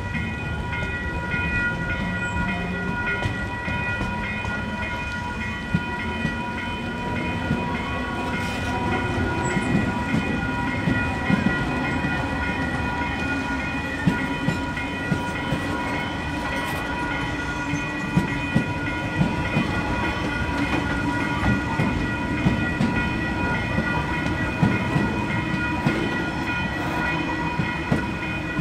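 KiwiRail freight train rolling past, its wagon wheels clacking over rail joints over a low rumble, with a steady high-pitched ringing tone. The clacks come thicker about a third of the way in.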